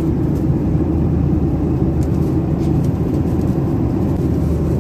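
Steady cabin rumble of a Boeing 737-800 in flight: engine and airflow noise, loudest in the low range, with no change in pitch.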